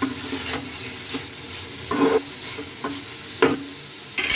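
Vegetables sizzling as they fry in a kadai while a spatula stirs them, with several scrapes and knocks against the pan, the loudest knocks late on.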